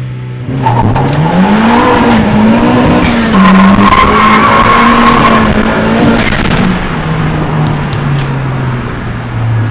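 Turbocharged 1.8 four-cylinder engine of a Mazda MX-5 with a VF35 turbo and cat-back exhaust, idling and then revved up about half a second in, held at raised revs with a high steady whistle for a couple of seconds, then dropping back to idle near the end.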